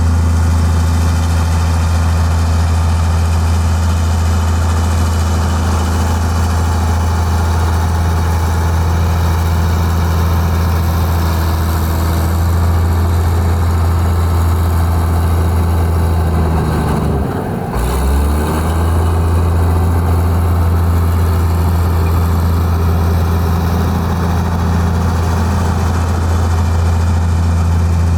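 Heavy diesel engine of construction machinery running steadily with a deep hum; about two-thirds of the way through its pitch drops briefly and comes back up.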